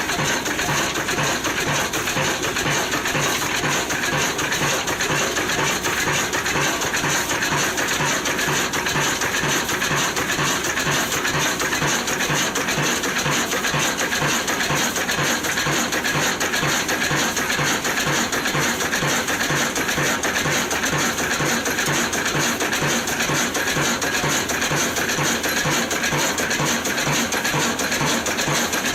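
Old Ruston & Hornsby stationary diesel engine running steadily, with a regular beat of about three strokes a second under a constant metallic clatter.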